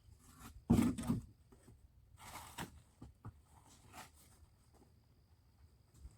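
Handling noises from shifting cement bags: a heavy thump about a second in, then scraping and a few light knocks.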